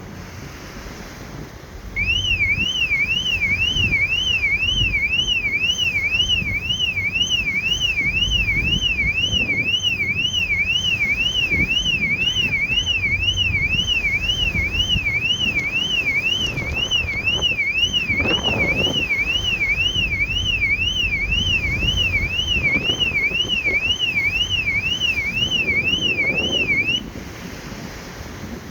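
Electronic alarm wailing in a fast up-and-down sweep, about two sweeps a second, for some twenty-five seconds before cutting off suddenly, over steady wind noise on the microphone.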